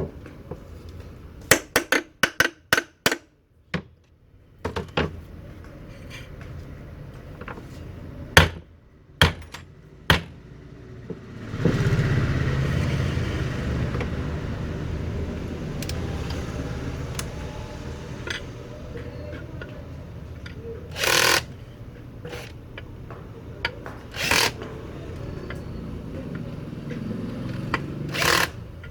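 Sharp metallic knocks and clicks as a repaired ceiling fan is put back together, several in quick succession early on. Then a steady low whirring starts up and slowly dies away, broken by a few more knocks: the motor spinning smoothly on its new bearings.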